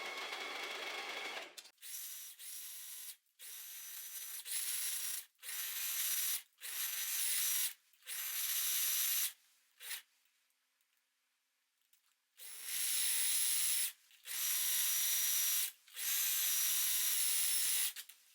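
Domestic sewing machine stitching a neckline seam in short runs of about one to two seconds, stopping and starting repeatedly as the fabric is guided around the curve, with a longer pause of about two seconds in the middle.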